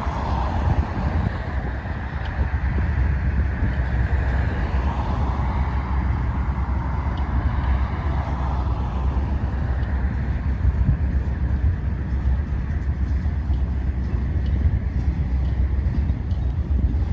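A freight train's autorack cars rolling past in a steady low rumble, with faint wheel clicks. Road cars pass in front a few times, swelling and fading.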